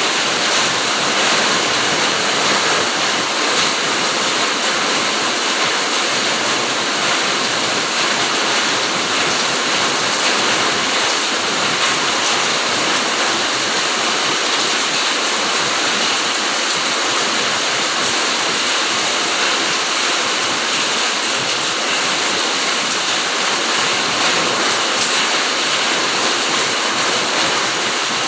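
Steady heavy rain, an even hiss of falling drops without a break.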